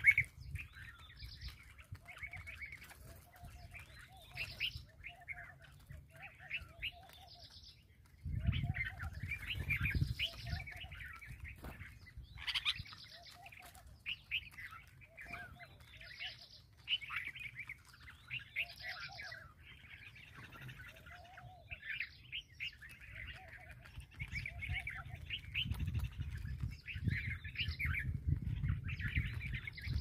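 Small birds chirping over and over in quick short notes, with lower short calls repeating in between. A low rumble comes in about eight seconds in and again near the end.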